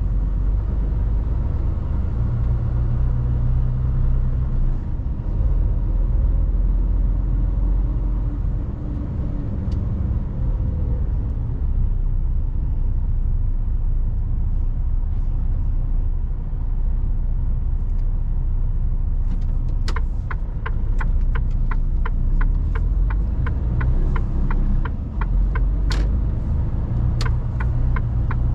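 Mercedes-Benz Actros truck's diesel engine running with a steady low rumble, heard from inside the cab. About two-thirds of the way in, a regular quick ticking starts and keeps going.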